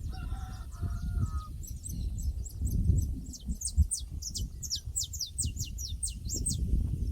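Outdoor pasture ambience: a bird gives a few short honking calls in the first second or so, then a small bird sings a quick run of high, downward-slurring chirps for several seconds. A low rumble of wind on the microphone runs underneath.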